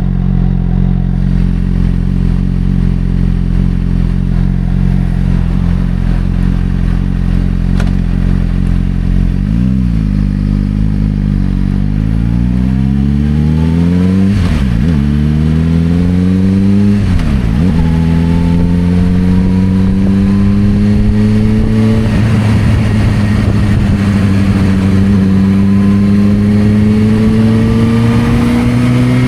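Suzuki GSR600 inline-four running through a Dominator aftermarket exhaust: a steady low note for about the first third, then pulling away with rising revs, two quick gear changes, and a slow climb in pitch to the end.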